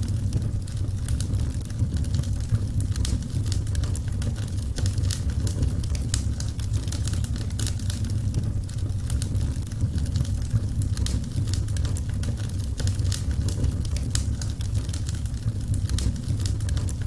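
Wood fire burning in a fireplace: a steady low rumble of the flames with frequent irregular crackles and pops throughout.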